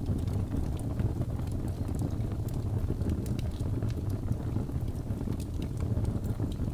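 Wood logs burning in a fireplace: a steady low rumble of flame with scattered small crackles and pops.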